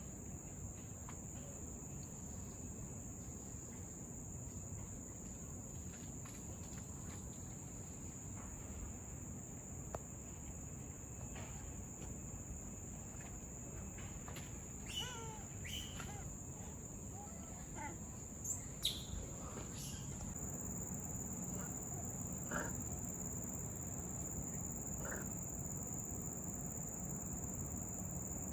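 Steady, high-pitched insect chorus droning without a break, with a few short bird chirps about halfway through.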